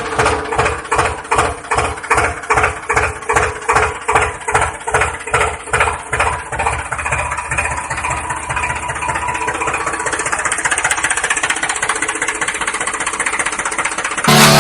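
An engine running with a regular chugging pulse of about two beats a second that evens out into a steadier run about halfway through.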